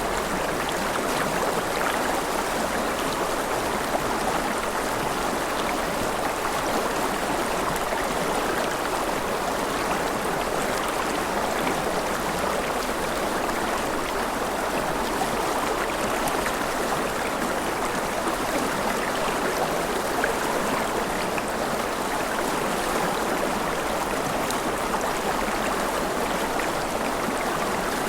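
A forest river flowing steadily over rocks, a continuous rushing and burbling of water.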